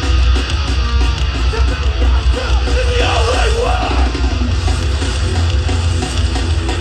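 Live hardcore band playing loud, heavy riffs with pounding bass and drums, and a shouted vocal breaking through about three seconds in.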